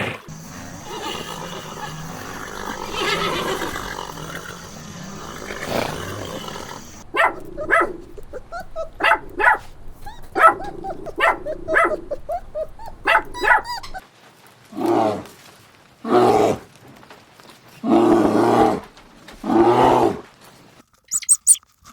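Animal calls: a run of short calls, then four longer pitched calls of under a second each.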